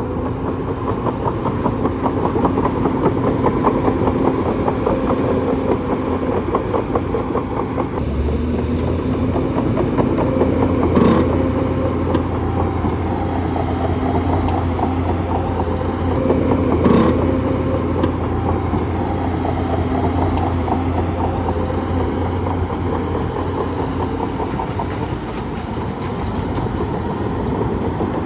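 Bulldozer's diesel engine running steadily under a low drone, with two sharp metallic clanks about six seconds apart and faint high squeaks near the end.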